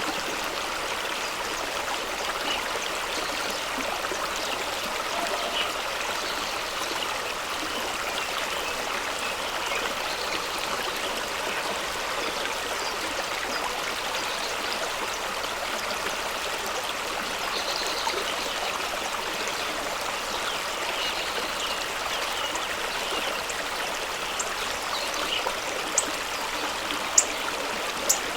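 A fast-running stream rushing steadily over rocks, with a few brief sharp splashes near the end.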